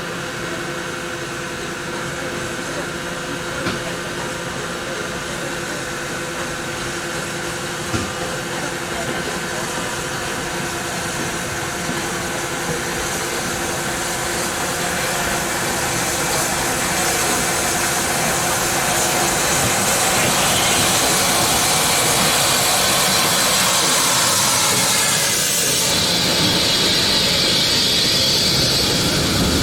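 Rebuilt Bulleid West Country class steam locomotive hissing in the station over a steady hum. The hiss of escaping steam swells through the second half and is loudest near the end.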